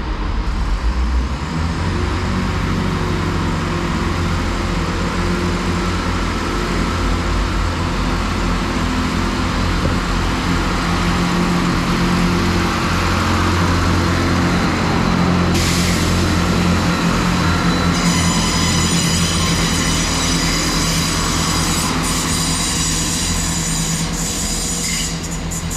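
Class 165 diesel multiple unit pulling away from the platform, its diesel engines giving a steady drone under power. There is a burst of hiss about two-thirds of the way through, and then high-pitched squealing or whining tones to the end.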